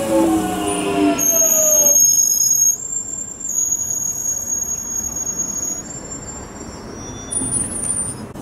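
A London Underground 1996-stock Jubilee line train moving along the platform. Its traction motors give off a whine of several tones that glide and step in pitch for the first two seconds. From about a second in until near the end there is a high-pitched steady squeal of the wheels on the rails, over the rumble of the train running.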